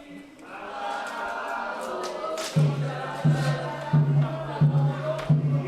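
A group of voices chanting a ritual song, with a deep drum beat coming in about halfway, roughly three beats every two seconds.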